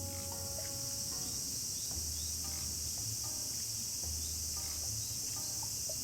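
Steady high-pitched chirring of insects such as crickets, with quiet background music of short plucked notes over a slow bass line.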